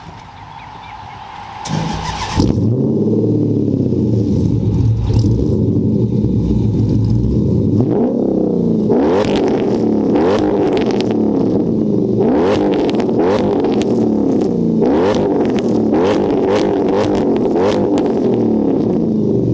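Chrysler 300 SRT8's V8 engine and exhaust coming in loud about two seconds in, then revving or accelerating over and over, each rise in pitch following the last every second or so.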